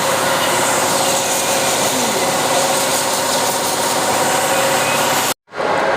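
A motor-driven machine running steadily, with a dense hum of many steady tones over a loud noisy rush. It cuts off abruptly about five and a half seconds in.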